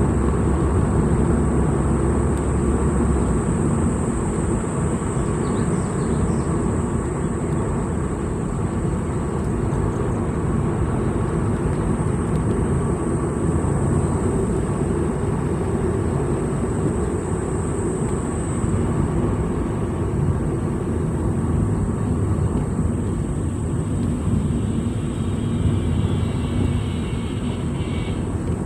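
A vehicle driving along a road, with a steady rumble of engine and road noise.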